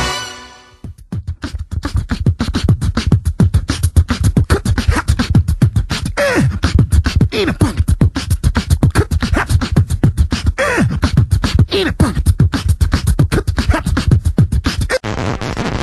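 A person imitating a helicopter with their mouth: a fast, even run of sharp pulses like rotor chop, with a few falling vocal sweeps mixed in.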